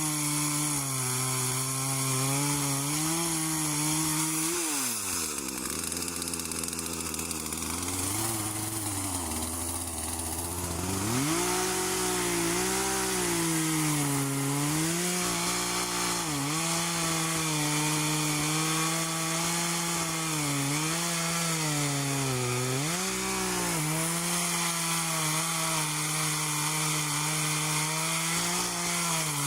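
Gasoline chainsaw running at full throttle while cutting through a rotten dead tree trunk, its engine note sagging under load and recovering as the chain bites. The pitch drops low about five seconds in, climbs back near eleven seconds, then dips and recovers several more times.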